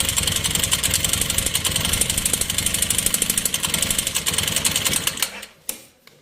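Single-cylinder four-stroke engine of an Italika FT150 GTS motorcycle running with a rapid, even knock, then shutting off about five seconds in. The noise comes from a piston broken at the skirt in an engine run with no oil.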